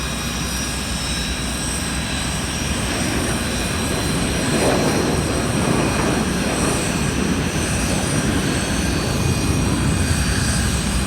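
Airliner's jet engines running on departure: a steady rumble with a high whine over it, growing gradually louder.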